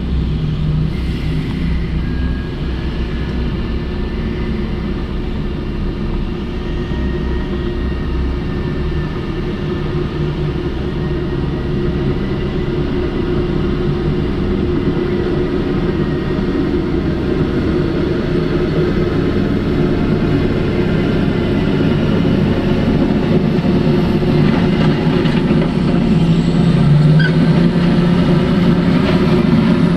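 Heavy mining machinery's diesel engines running steadily, gradually getting louder, with the engine note stepping up near the end.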